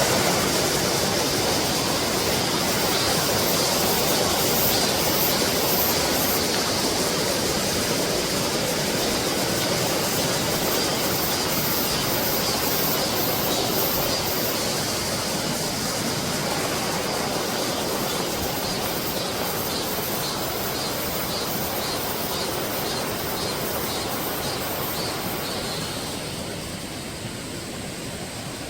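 Mountain valley stream running with a steady wash of water, with cicadas buzzing in repeating pulses high above it. The water sound eases off a little near the end.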